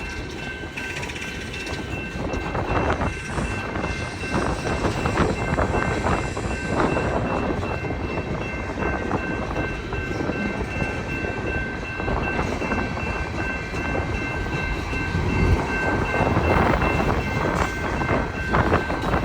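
Empty BNSF coal train rolling through a grade crossing, its wheels clacking over the rails, with the crossing's warning bell ringing steadily. Strong wind rumbles on the microphone.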